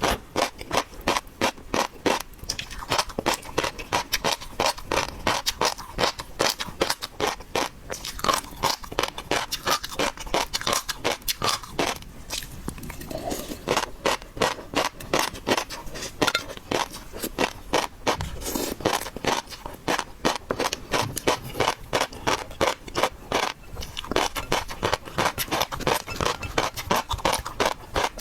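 Close-up crackling, scraping and crunching of raw seafood being handled and eaten: a dense run of sharp clicks, several a second.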